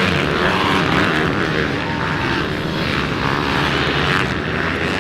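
Pit bike engines running steadily, a loud continuous buzz of small single-cylinder motorcycle engines on a race track.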